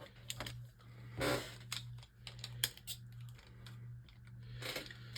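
Light plastic clicks and rattles from Beyblade tops and launchers being handled, irregular and scattered, with a short rustle about a second in. A steady low hum sits underneath.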